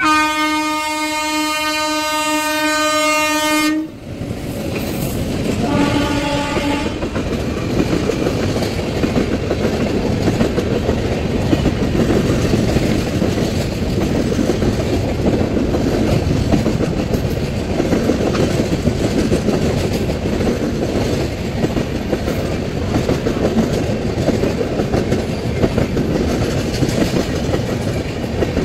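Express train locomotive sounding a long horn blast of about four seconds, then a short second blast. The train then runs through at speed, its passenger coaches rumbling and clattering over the track for the rest of the time.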